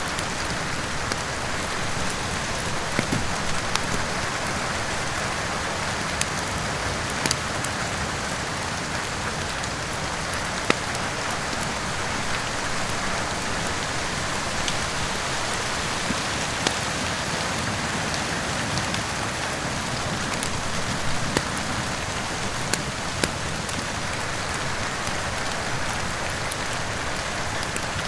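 Steady heavy rain, with scattered sharp crackles and pops from a wood fire every second or two.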